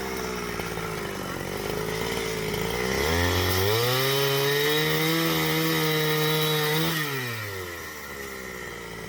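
Two-stroke chainsaw running, then revving up about three seconds in, held at high revs for about four seconds, and falling back toward idle.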